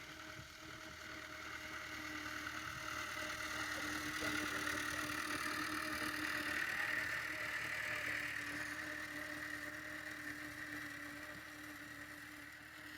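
Tractor engine running steadily while pulling a laser land leveller. It grows louder toward the middle and then fades away.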